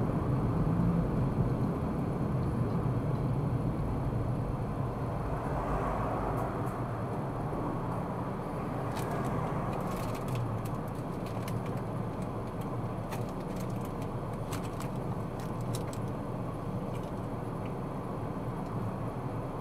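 A car driving, with steady road and engine noise that eases off slightly; a broader swell about six seconds in, and scattered faint clicks through the second half.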